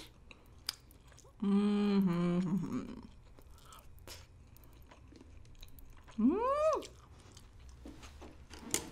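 Close-miked chewing of a mouthful of soy-pickled avocado, with small wet mouth clicks. Two hummed "mmm"s of pleasure break it: a long steady one about a second and a half in, and a short one that rises then falls about six seconds in.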